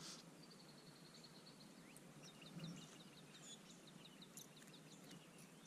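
Faint songbird calls: a high trill, then a quick run of short repeated chirps, about four a second.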